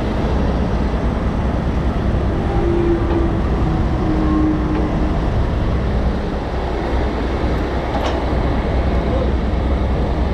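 Heavy diesel wrecker running steadily with a low rumble while it winches its cable tight on a loaded semi, with a couple of short whining tones a few seconds in.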